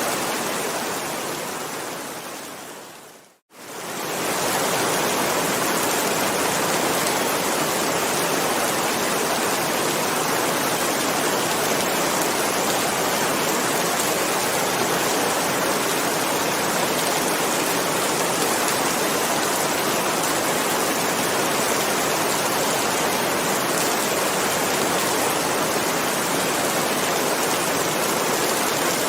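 Steady hiss of heavy rain. About three seconds in it fades out to a moment of silence, then fades back in within a second.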